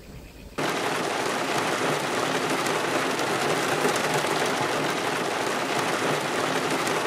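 Heavy rain falling on a car's roof and windshield, heard from inside the car: a steady, dense hiss that comes in suddenly about half a second in.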